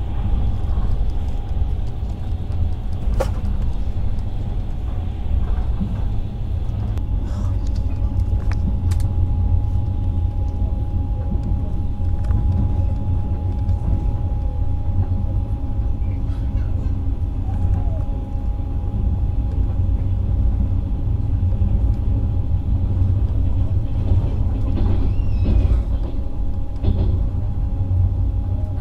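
Passenger train carriage rolling along the track, heard from inside the compartment: a steady low rumble with a faint steady hum above it and a few sharp clicks.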